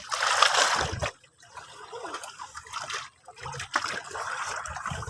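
Sea water washing and splashing, with a loud surge in the first second, then lower trickling and sloshing.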